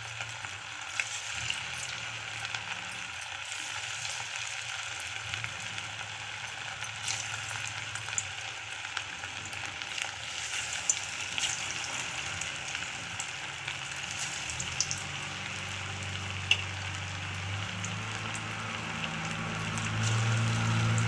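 Chicken 65 pieces in a cornflour-and-spice marinade deep-frying in hot oil: a steady sizzle with scattered crackles and pops, the sign that the oil is well heated.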